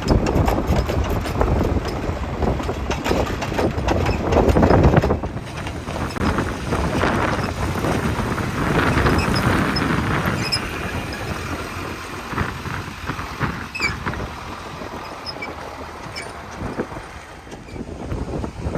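JCB 3DX backhoe loader's diesel engine working, with wind noise on the microphone. The sound changes abruptly about five seconds in, then grows gradually quieter.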